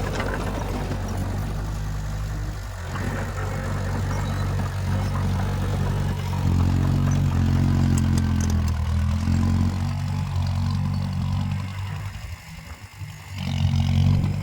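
Heavy diesel engine of earthmoving machinery running steadily, getting louder about halfway through, with a brief dip in level near the end.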